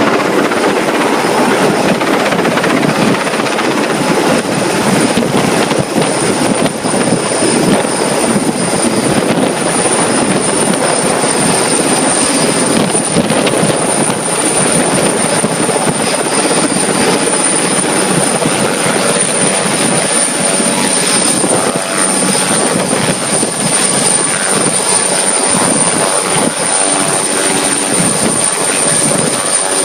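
Helicopter running close by, its rotor and engine giving a loud, steady noise with a thin, constant high whine above it.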